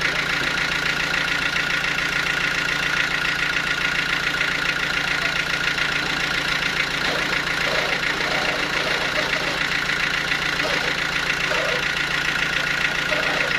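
Sawmill machinery running steadily: an even, engine-like hum with a steady high whine over it and a fast, even pulsing.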